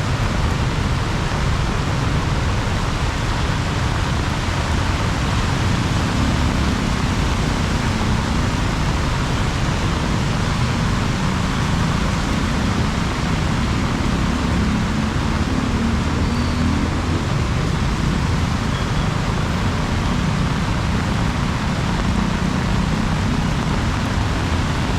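Heavy rain pouring steadily, a dense unbroken hiss with a strong low rumble underneath.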